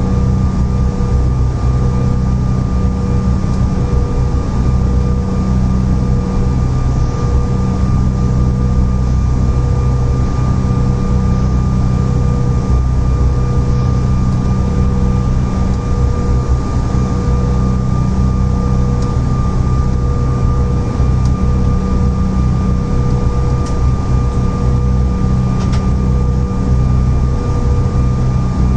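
Cabin noise of a CRJ-900 with its rear-mounted GE CF34 turbofans at idle thrust: a steady low rumble with a thin steady whine above it, heard from inside the cabin. It holds level throughout, with no spool-up.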